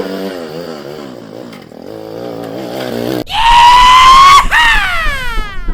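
A comedy sound effect: a clear whistle-like tone holds and rises slightly for about a second, then slides steeply down in pitch, over a fainter wavering hum.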